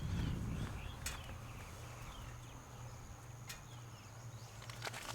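Quiet outdoor ambience: a steady low hum and a thin steady high tone, faint chirps, and a few sharp clicks about a second in, midway and near the end.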